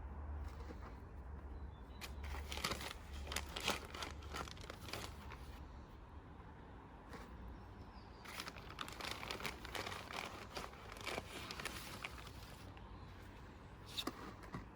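Trowel scraping and crunching through gritty cement mix in a bucket, in two irregular bouts of strokes.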